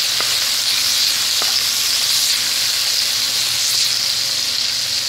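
Sliced onions sizzling in hot oil as they brown, with a steady hiss and a couple of faint clicks as a spatula stirs them.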